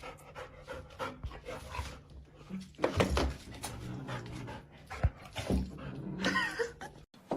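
A dog panting and whimpering, with a short whine near the end.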